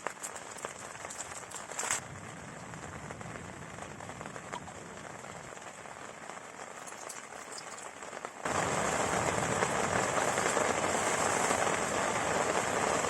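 Heavy rain falling steadily, with a few faint crackles; about two-thirds of the way through it abruptly becomes much louder and denser.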